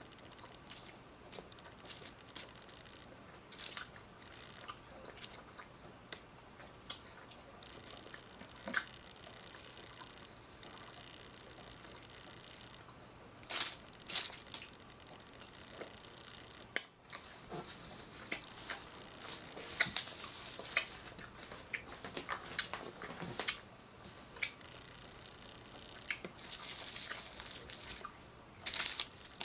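Close-up eating sounds: biting and chewing a wrap stuffed with crispy maple snacking bacon, with scattered sharp crunches and mouth clicks. Near the end, a denser stretch of rustling from the paper wrapper.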